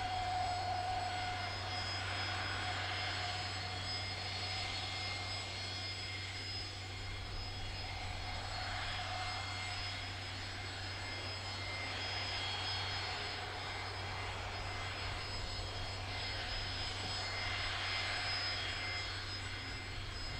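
Aircraft engines running steadily, a continuous rush with a thin high whine held throughout.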